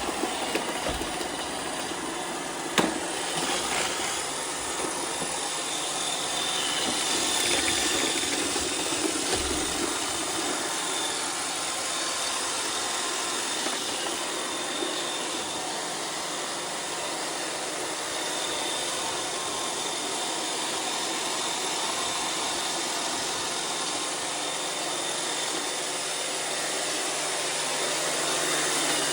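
iRobot Roomba 630 robot vacuum running: a steady whir of its vacuum motor and brushes with a faint high whine, and a light knock about three seconds in. The bin motor has been oiled.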